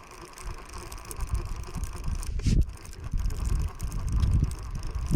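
Wind gusting on the microphone, a changing low rumble, with one short knock about two and a half seconds in.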